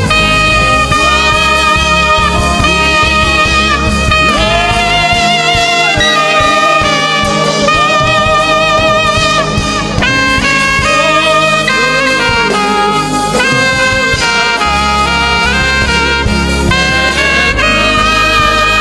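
Live gospel band playing an instrumental passage: a saxophone leads with a melody full of vibrato and bends over keyboard chords, bass and drums.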